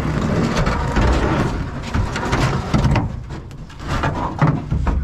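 Heavy scrap metal pieces being handled and stacked, clattering and scraping against each other with a run of knocks and rattles.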